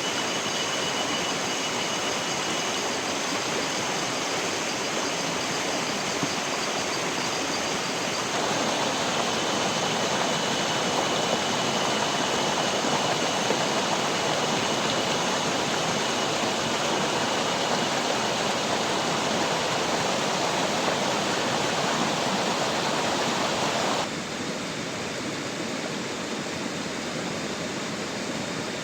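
Steady rushing of water, a dense even noise, with a few thin high steady tones over it for the first eight seconds. It steps up in level about eight seconds in and drops abruptly near the end.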